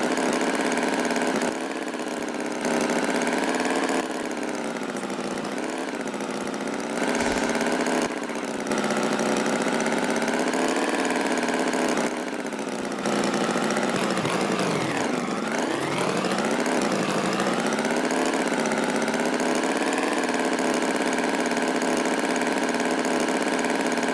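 Tractor engine sound effect running steadily, its pitch wavering gently, with a sharp dip and rise in pitch about fifteen seconds in.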